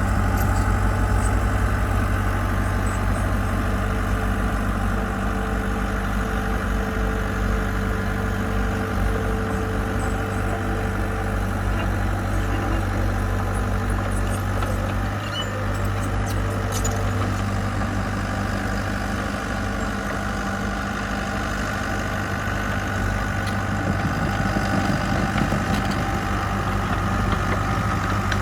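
Diesel engine of a mini dozer or dump truck running steadily at an even, low pitch.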